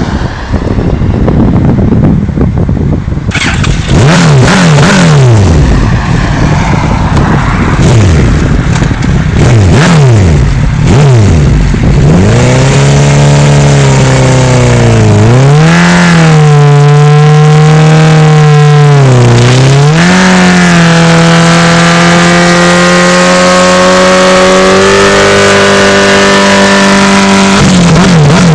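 Large motorcycle engines revving and sweeping past, their pitch rising and falling again and again. In the second half a single engine holds a steady high drone, dips and climbs back twice, then runs on at steady revs.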